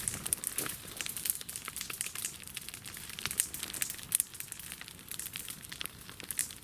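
Bonfire of a burning tyre with a television on it, crackling with a dense run of irregular sharp snaps.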